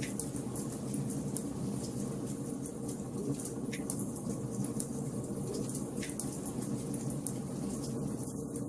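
Wood fire burning in a fireplace: a steady low rumble of the flames with frequent small crackles and snaps, and a couple of sharper pops near the middle.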